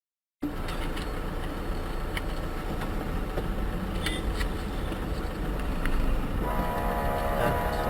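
Vehicle driving on a road: steady engine and road rumble with a few small clicks, starting abruptly just after the start. Near the end a steady pitched engine or horn tone joins in.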